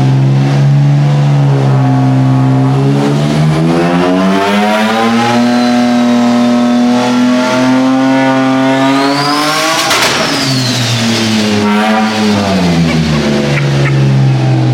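Turbocharged car engine making a full-throttle dyno pull: it climbs steadily from idle toward the rev limit with a rising turbo whine, lets off with a rush of air about ten seconds in, then winds back down to idle.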